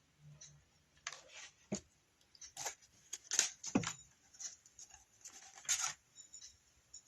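Handling noise while hot-gluing: irregular light clicks, rustles and a few soft knocks as the glue gun, candlestick and craft pieces are moved about on the work table.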